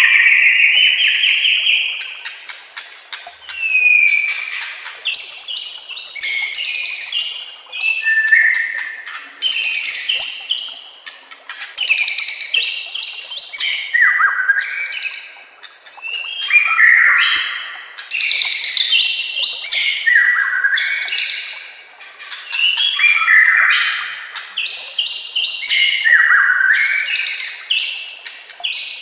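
White-rumped shama (murai batu) singing a loud, varied song of rapid whistled and chattering phrases, with a new rush of song every few seconds.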